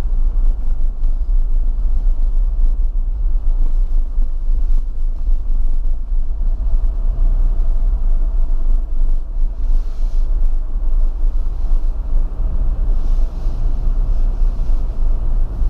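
Steady low rumble of a car driving along snowy streets, heard from inside the cabin.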